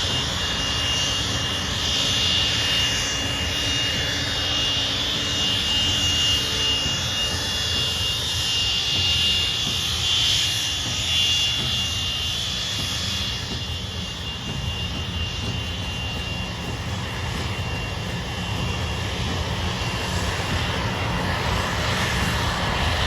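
Jet aircraft engines running steadily, a rushing noise with a high turbine whine that fades about halfway through.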